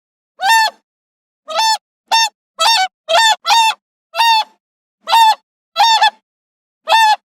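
Goose honking repeatedly: about ten short, loud, nasal honks in an uneven series, each separated by silence.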